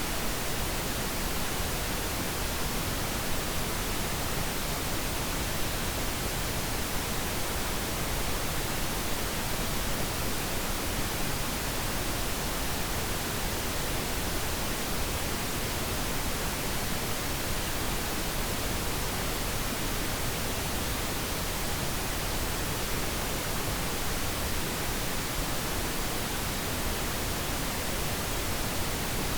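Steady synthetic pink noise: an even, unchanging hiss spread across all pitches, with no changes or other sounds.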